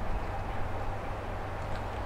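Distant train approaching through a rail yard: a steady low rumble with a faint steady hum.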